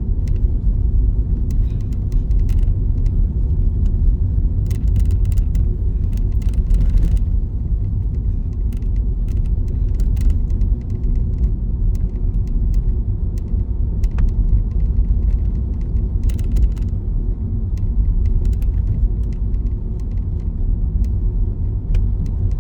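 Steady low rumble of a car driving on a snowy road, heard from inside the cabin, with scattered faint ticks over it.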